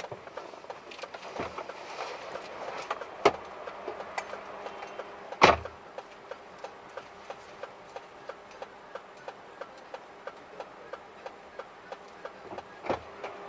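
A car's indicator ticking steadily, about two clicks a second, heard inside the cabin, with a couple of louder sharp knocks, the biggest about five and a half seconds in.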